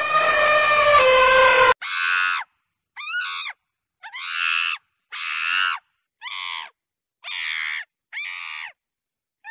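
An elephant trumpets once, a long rough call that ends about two seconds in. Then comes a run of about eight short, high monkey shrieks, each under a second, rising and falling in pitch with silent gaps between them.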